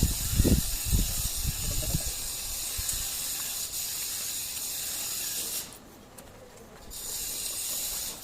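A neighbour's power grinder running with a steady high-pitched hiss, stopping briefly about two-thirds of the way through, starting again and cutting off near the end. A few low thumps in the first two seconds.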